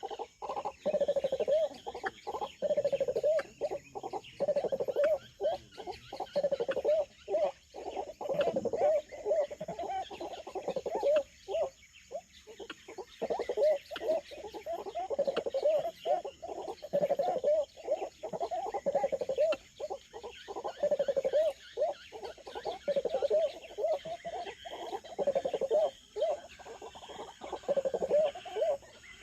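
Animal calls repeated over and over in quick, warbling phrases. Behind them runs a faint, steady high-pitched insect drone.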